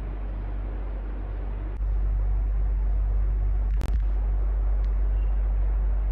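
Electric fan running steadily with a whooshing air noise and a deep low rumble that gets louder about two seconds in. A single sharp click sounds near the middle.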